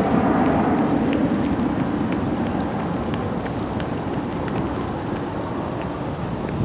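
Boeing 737-800's CFM56 jet engines at takeoff power, a steady low rush that slowly fades as the airliner climbs away.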